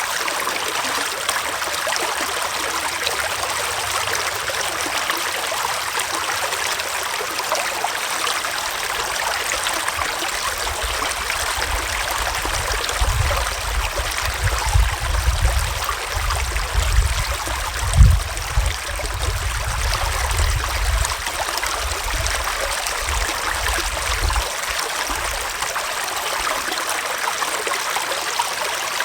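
Small forest stream flowing and trickling steadily over rocks. Through the middle a low rumble comes and goes, with one low thump, the loudest sound, about two-thirds of the way in.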